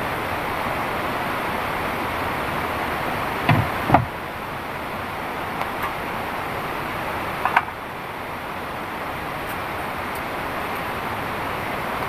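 Heavy rain pouring steadily. A pair of short knocks sounds about four seconds in and another pair a little past halfway.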